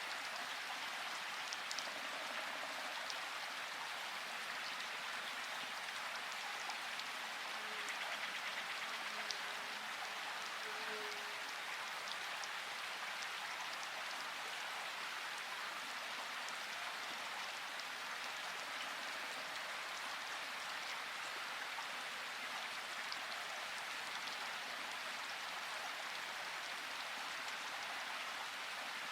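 Steady rain falling, an even hiss with a few drops ticking now and then.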